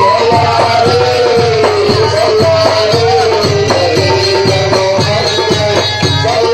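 Live Port Said simsimiyya folk music from a band: a gliding melody line over a steady hand-percussion beat.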